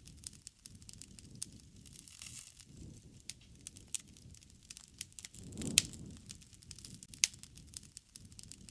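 Campfire crackling: wood popping in irregular sharp snaps, one loud pop about six seconds in, over the soft rush of the flames.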